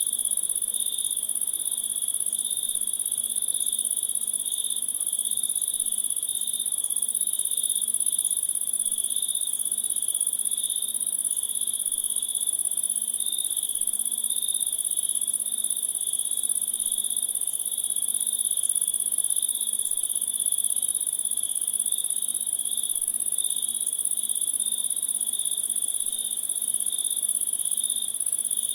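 Chorus of crickets and other insects: a steady high-pitched trill over a lower trill that pulses gently.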